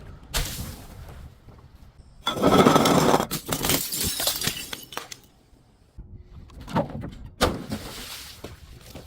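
Glass bottles being smashed: a sharp strike at the start, then a loud shattering crash about two seconds in that trails off over a couple of seconds. Two more strikes with shorter crashes follow near the end.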